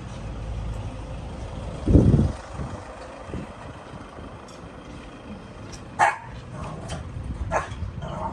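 A dog barking several short times in the second half, over a low rumble, with a loud low thud about two seconds in.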